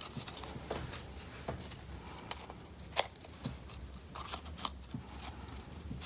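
Folded paper and string being handled: scattered crisp rustles and small sharp clicks of the pleated paper, a louder crackle about three seconds in.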